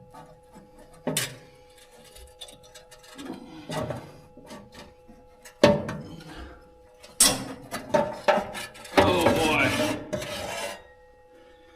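Hand tools working on an engine's valve cover: scattered metal clicks and knocks, then a longer stretch of scraping and rubbing about nine seconds in, over a faint steady hum.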